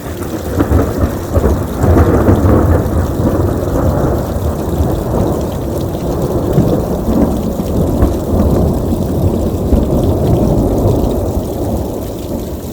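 A long roll of thunder that breaks in suddenly, rumbling loudly for about ten seconds and slowly fading near the end, with rain falling throughout.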